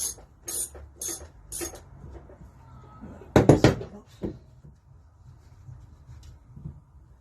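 Ratchet spanner working a nut in short strokes, about two a second, for the first couple of seconds. Then a loud metallic clank and clatter of steel parts about halfway through, with a smaller knock just after.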